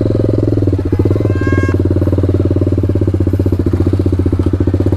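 TVS Apache RR 310's single-cylinder engine running through an aftermarket SC Project exhaust at steady low revs, a loud, even pulsing note that holds its pitch. A brief high-pitched tone sounds about a second and a half in.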